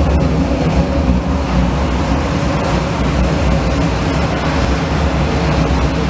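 Heated high-pressure parts washer running: a steady, loud machine hum with an even hiss above it.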